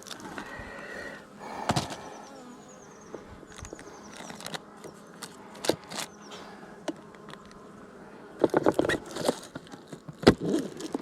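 Honeybees buzzing around an open hive, a steady hum, with scattered knocks and clicks, several of them close together near the end.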